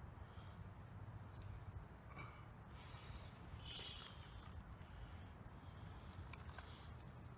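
Faint outdoor ambience: a low steady rumble like wind on the microphone, scattered short high bird chirps, and a few faint clicks.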